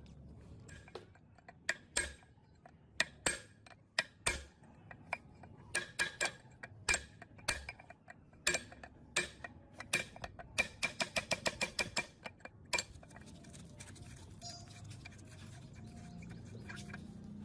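Sharp clicks and taps of hand tools working metal parts, irregular at first, then a quick run of about six clicks a second. They cut off suddenly about two thirds of the way in, and a quieter steady rubbing follows.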